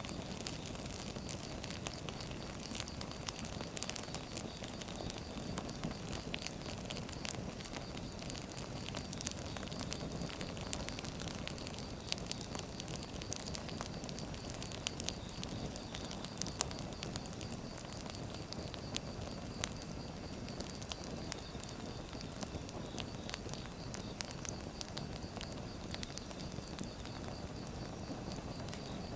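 Firewood burning, crackling with many irregular sharp pops and snaps over a steady low rustle of the flames.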